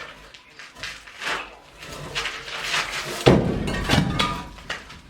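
A column in a room under construction being knocked down: a run of sharp knocks and blows, then a heavy crash about three seconds in with a second thud just after.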